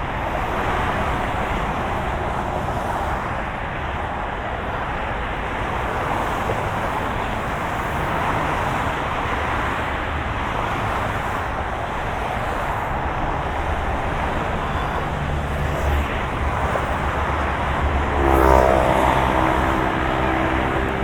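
Steady road and engine noise of a moving car. About 18 seconds in, an engine hum rises in pitch and then levels off, the loudest moment.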